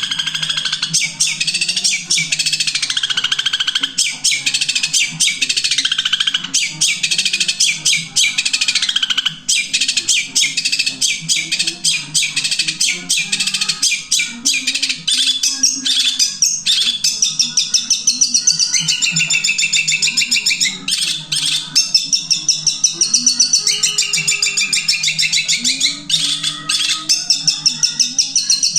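Long-tailed shrike (cendet) singing a long unbroken stream of rapid high chirps and trills, running several songs together without a pause, over a steady low hum.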